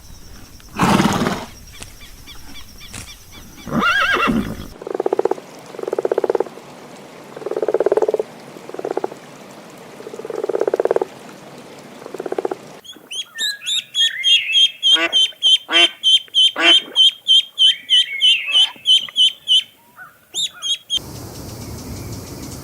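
A sequence of spliced animal calls. Two loud calls open it, then comes a run of low, buzzy calls about a second apart. Near the end a fast, even series of sharp, high-pitched calls follows.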